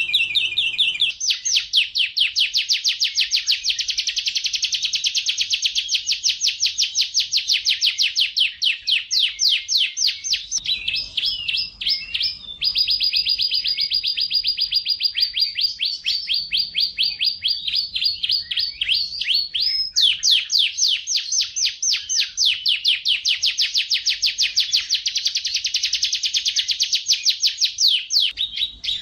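Domestic canary singing continuously: long runs of very fast trills, broken in the middle by a steady whistled note held for several seconds before the rapid trills resume.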